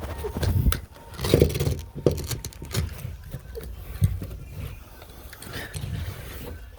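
Irregular scraping, clicks and knocks of hand work with tools and materials, over a low rumble; the loudest knocks come about a second and a half in.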